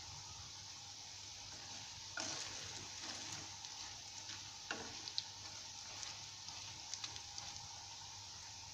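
Breaded quail eggs deep-frying in hot oil, a steady sizzle. From about two seconds in it grows busier, with crackles and a few sharp clicks.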